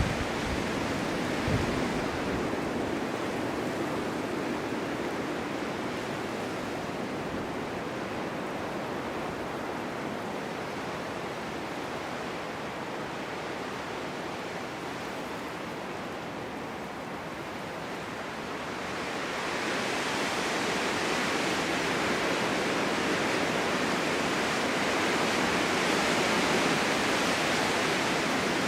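Snowstorm wind blowing steadily, easing a little in the middle and then swelling into a stronger, hissier gust for the last third. A brief low buffet about a second and a half in.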